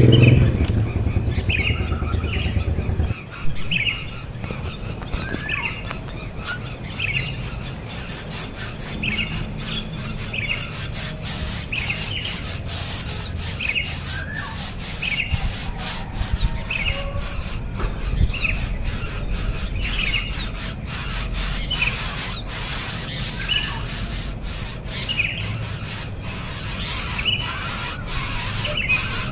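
A small bird chirping over and over, one short high call about every second. A low motor rumble underneath stops about three seconds in, and a steady high hum runs behind.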